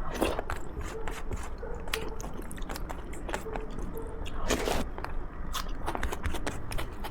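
Close-miked chewing of a home-cooked Indian meal: a steady run of wet mouth clicks and smacks, with a louder bite about four and a half seconds in.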